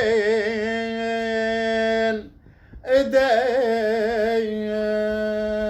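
A man's solo chanted lament (naʿi), sung in two long drawn-out phrases with wavering, ornamented held notes, broken by a short breath about two seconds in.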